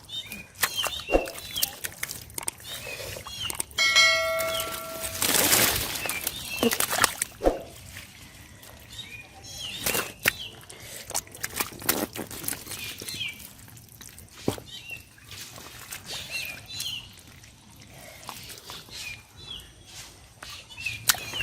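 Water splashing and sloshing now and then, with repeated short bird chirps throughout. About four seconds in comes a brief bell-like ring.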